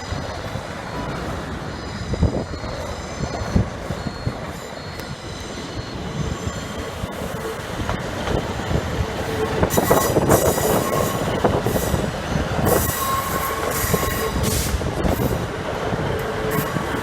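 A train moving through the station with its wheels squealing on the rails and knocking over the track. It grows louder toward the middle, loudest about ten seconds in.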